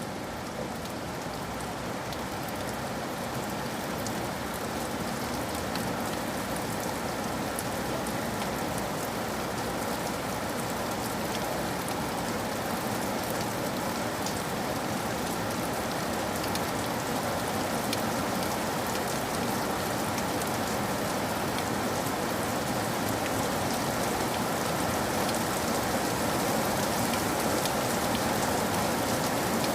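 Steady rain falling, a dense even hiss with many small drop ticks, growing slightly louder toward the end.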